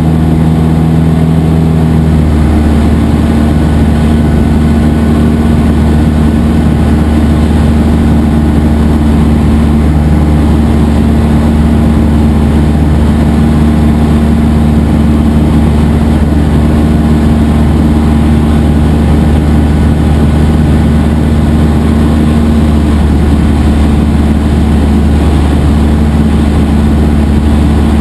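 Cessna 172SP's four-cylinder piston engine and propeller droning steadily, its pitch shifting slightly about two seconds in and then holding.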